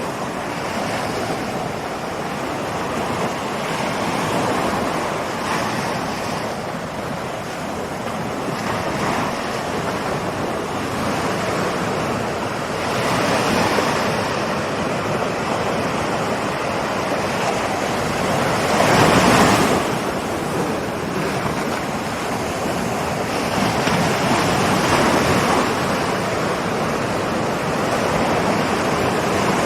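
Ocean waves rolling onto a shore: continuous surf that swells and falls back every few seconds, with one bigger wave breaking about two-thirds of the way through.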